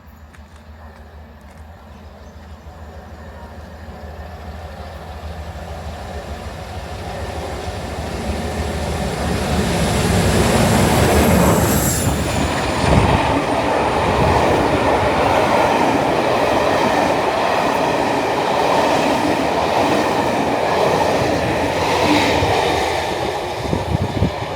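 A passenger train approaching and passing close by, growing louder over about ten seconds into a steady rumble of wheels on rail with clattering over the rail joints. A brief high squeal from the wheels about halfway through.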